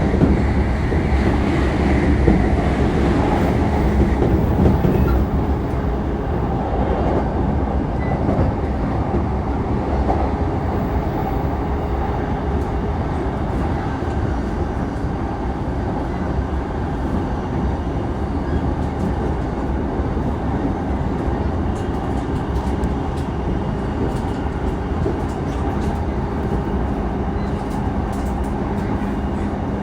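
Interior running sound of a JR East E233-3000 series electric train travelling at speed: a steady rumble of wheels on rail with faint motor tones, easing slightly in loudness over the first few seconds.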